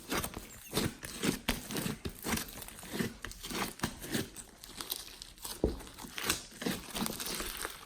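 Glossy slime being kneaded and squeezed by hand, giving dense, irregular sticky clicks and crackles.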